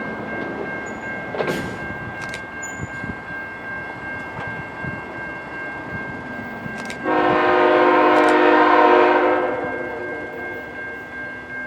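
Diesel locomotive air horn sounding one long blast that starts suddenly about seven seconds in and fades out after about three seconds, over a passing train. A steady high whine and a few sharp clicks are heard before the horn.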